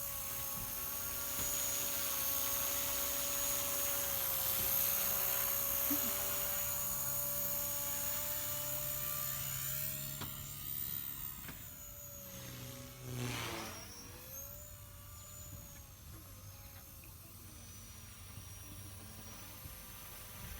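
Blade Fusion 180 electric RC helicopter in flight: a steady, high-pitched whine from its motor and rotor that shifts pitch as it manoeuvres. The whine grows fainter after about twelve seconds, with a brief swell and sweep in pitch a little after that.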